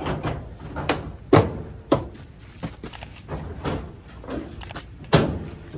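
Irregular knocks, clicks and clunks of sheet-metal and plastic dryer parts being handled and fitted together as a Samsung dryer's drum and front end are reassembled, with three loud knocks about a second and a half in, near two seconds, and near the end.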